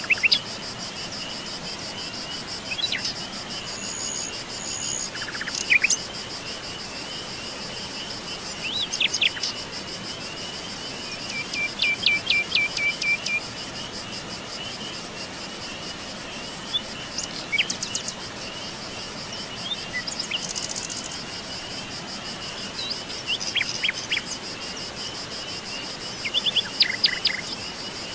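Forest birds calling now and then with short sweeping notes and a brief trill about twelve seconds in, over a steady, high-pitched chorus of trilling insects such as crickets.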